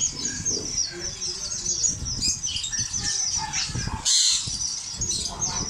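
Many caged birds chirping and twittering together, a dense run of short high calls, with one louder harsh squawk about four seconds in.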